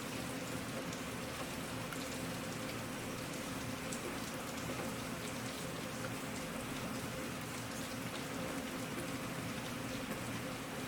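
Steady rain falling, an even wash of noise with scattered individual drops ticking through it.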